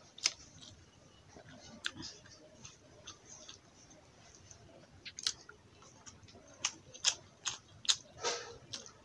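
Close-up eating sounds of someone eating rice and potato curry by hand: chewing and mouth smacking, with sharp wet clicks at irregular intervals, coming more often in the last few seconds.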